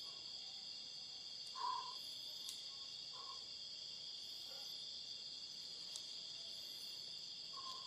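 Crickets and other insects chirping in a steady high-pitched chorus, with a few faint brief tones in the background.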